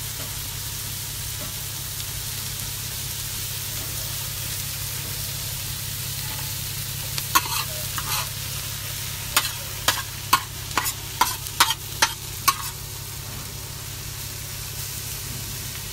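Onions and bell peppers sizzling steadily in a hot pan on a propane gas cooker. From about seven to twelve seconds in, about ten sharp clicks of a metal utensil striking the pan as the food is stirred.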